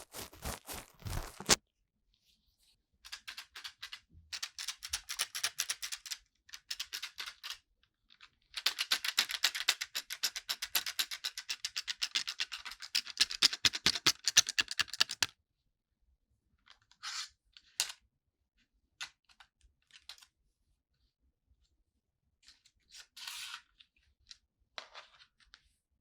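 Ear cleaning in the ear of a 3Dio binaural microphone: an ear-cleaning tool scratching and rubbing in quick, close strokes. There are two long runs of strokes, then only a few scattered scrapes near the end.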